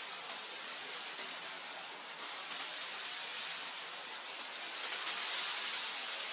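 Wind blowing, an even hiss that swells about five seconds in.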